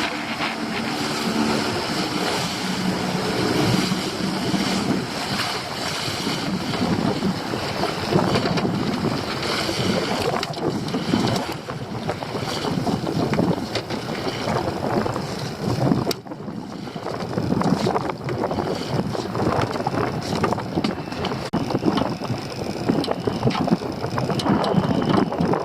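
Wind buffeting the microphone aboard a small inshore fishing boat at sea, over the steady noise of the boat and water, with a steady motor hum in the first few seconds.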